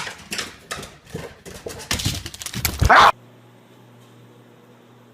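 A dog making a rapid series of short yips and whines that grow louder, cut off abruptly about three seconds in. After that comes a faint steady hum.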